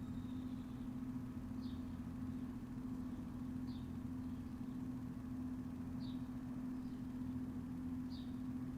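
Backyard ambience: a steady low hum with a short, high chirp repeating about every two seconds, four times.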